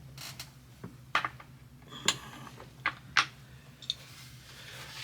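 Scattered sharp clicks and taps of a metal skate tool against a skateboard truck, about seven over a few seconds, while the truck is worked on to tighten it.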